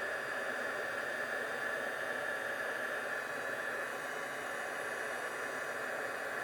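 Craft heat gun blowing steadily, an even rushing hiss, as it melts embossing enamel on a card.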